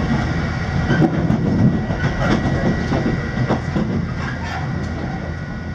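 A passenger train running on rails, heard from inside the carriage: a steady rumble of wheels on track with a handful of irregular clicks as the wheels cross rail joints and points, and a thin steady high whine. The sound slowly grows quieter toward the end.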